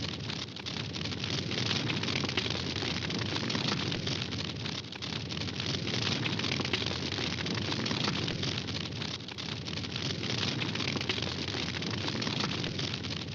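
Campfire burning with dense, continuous crackling over a steady rushing noise.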